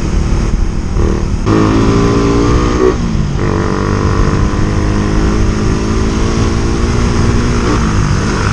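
Suzuki Raider 150 Fi single-cylinder engine running at road speed under heavy wind buffeting on the microphone. The engine note drops about three seconds in, holds steady, then drops again near the end as the throttle eases.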